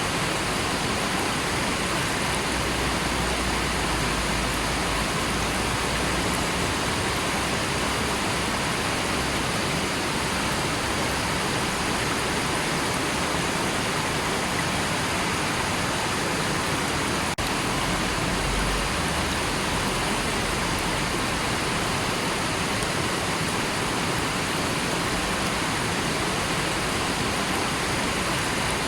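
River water flowing and rushing over rocks, a steady even wash of noise that doesn't change.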